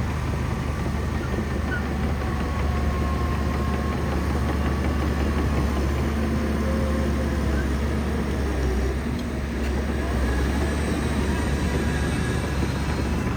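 Shantui bulldozer's diesel engine running steadily under work, a deep even rumble, with faint wavering higher tones over it.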